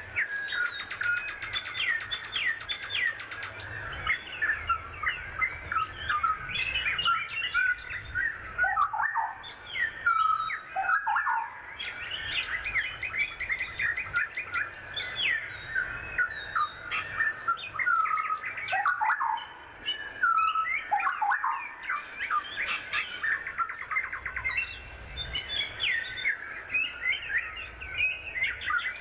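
Many birds chirping and singing at once, a dense, unbroken chorus of quick high calls. A few longer falling whistles come through about nine to eleven seconds in and again around twenty seconds.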